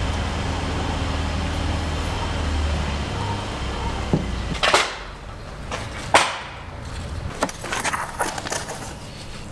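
A steady low motor hum that stops about four and a half seconds in, followed by two sharp knocks and then a scatter of lighter clicks and taps.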